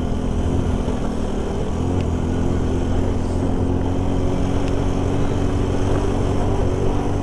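Honda C90 motorcycle's small single-cylinder four-stroke engine running steadily while riding, its pitch holding almost constant.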